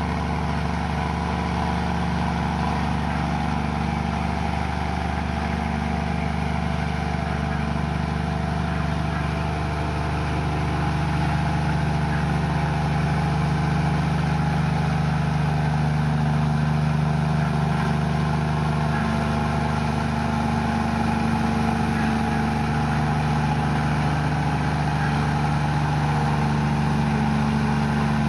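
Komatsu bulldozer's diesel engine running steadily while the dozer pushes mud, getting a little louder from about eleven seconds in.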